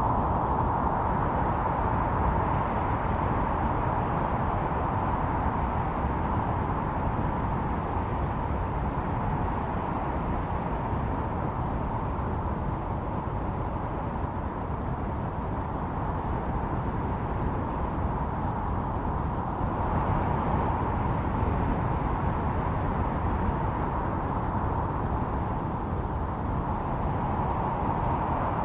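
Snowstorm wind howling steadily: a held whistling note over a low rushing noise, swelling a little about two-thirds of the way through.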